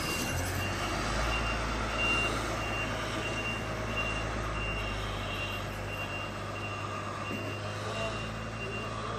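A truck's reversing alarm beeping at an even pace, with its diesel engine running underneath.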